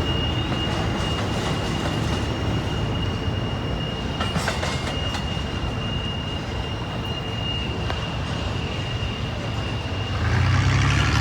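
Freight train cars rolling past, a steady rumble with a thin, steady high wheel squeal. Near the end the squeal stops and a louder low hum comes in.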